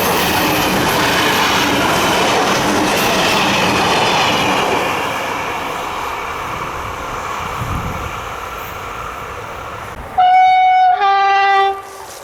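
A train rolling past on the rails, its noise slowly fading away, then two short train horn blasts near the end, the second with a lower note added. The horn blasts are the loudest part.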